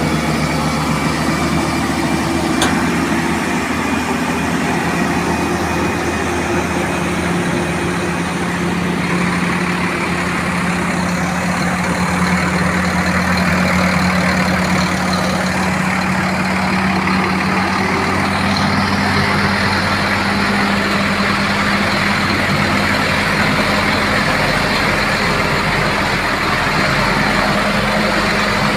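Iveco boom truck's diesel engine running steadily, its pitch rising slightly about seven seconds in and then holding.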